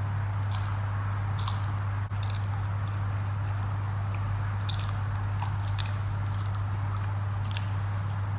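Wet chewing and lip-smacking of someone eating rice and fish curry by hand, heard as short sharp clicks every second or so over a steady low hum.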